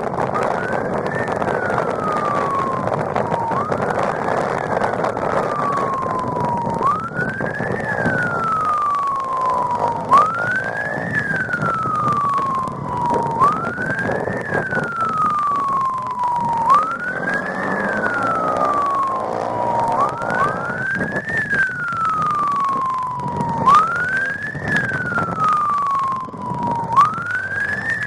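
Police siren on a wail, each cycle rising quickly and then falling slowly, repeating about every three seconds over steady vehicle noise. It is the pursuing police motorcycle's siren.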